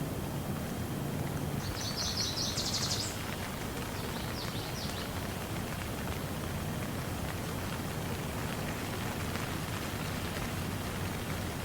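Steady rain falling, an even hiss throughout. A small bird trills twice over it, a rapid run of high notes about two seconds in and a shorter one about four seconds in.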